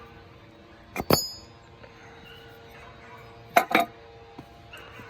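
Metal clinking: two sharp clinks with a brief ringing about a second in, then two more a little past halfway, over a faint steady hum.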